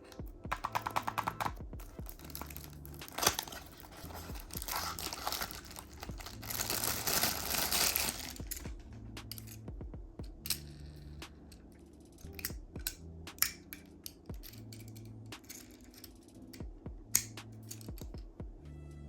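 Small toy boxes and packaging being opened by hand: crinkling and tearing for about the first eight seconds, with a quick rattle of ticks about a second in. Then scattered sharp clicks and taps as small die-cast toy cars are handled.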